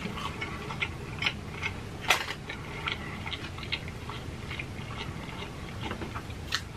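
Close-up chewing of a bite of breaded, fried pig stomach: irregular crunches and mouth clicks a few times a second.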